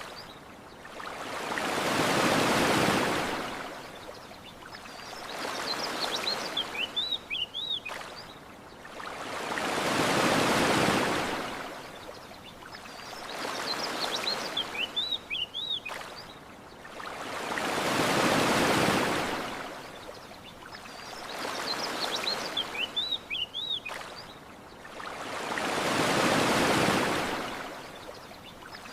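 Ocean waves washing onto a shore in slow swells about every four seconds, with short clusters of high bird chirps about every eight seconds. The whole pattern repeats identically, a looped ambience track.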